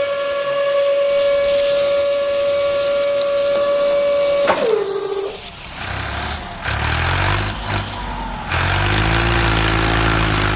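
A steady high whine that drops in pitch and cuts out about four and a half seconds in. Then a vehicle engine runs low and rumbling, rising and falling in pitch as it revs.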